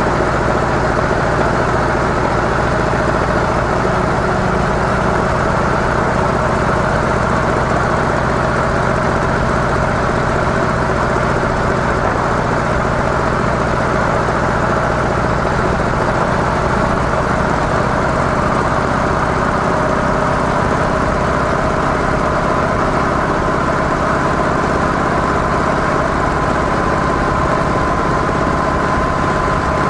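Harley-Davidson CVO Softail's V-twin engine through its stock mufflers, running steadily at an even pace. A high steady tone grows stronger over the last several seconds.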